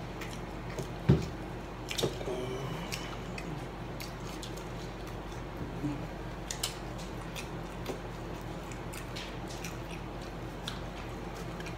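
People eating fried chicken nuggets: quiet chewing with small wet clicks and handling sounds from dipping into sauce cups, over a steady low hum. One sharp knock about a second in.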